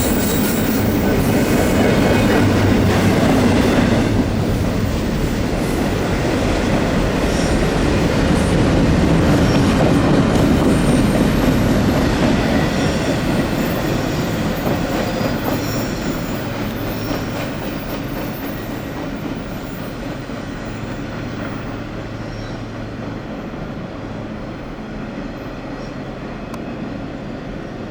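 Intermodal freight train's well cars rolling past: a steady rumble and clatter of steel wheels on rail, with a few faint high wheel squeals. The sound slowly fades over the second half as the train moves away.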